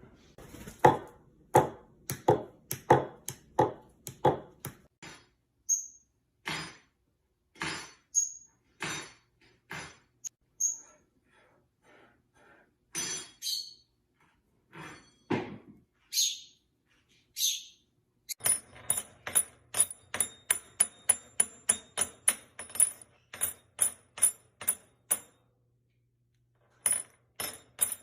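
A pet bird's taps and clicks, with a few short high chirps and two falling calls in the middle. In the second half it turns into a quick run of clicks, about four a second, which stops a couple of seconds before the end.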